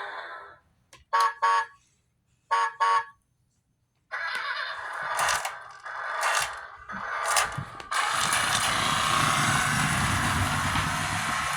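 Adventure Force Jawsome Jammer toy truck's electronic sound effects: a horn beeping twice, then twice again, followed by a noisy sound effect that swells three times and settles into a steady, loud rushing noise from about eight seconds in.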